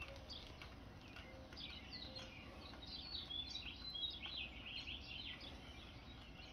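Faint birds chirping, with a run of quick short calls through the middle, over steady low outdoor background noise.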